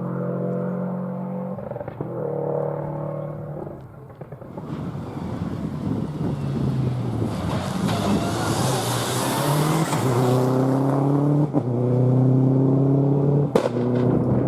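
Four-wheel-drive rally car engine revving hard as the car passes, its note rising and breaking off at each gear change. A loud hiss swells in the middle as the car goes by, and there is one sharp crack near the end.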